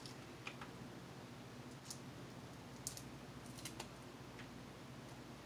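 Faint mouth clicks and smacks of someone chewing seafood, a few short, irregular ticks spread over a few seconds, over a steady low room hum.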